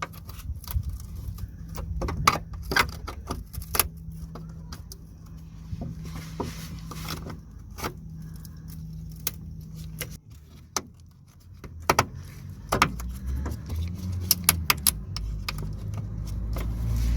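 Irregular sharp metallic clicks and taps of a chisel working at the handbrake cable's retaining clip and bracket under a Toyota Yaris. A steady low hum runs under the first ten seconds or so.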